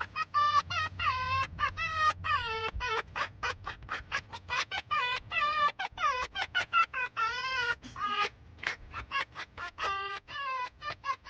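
Foxes cackling: runs of short, high, yelping calls, several a second with brief pauses. This is the 'laughing' sound foxes make when tickled.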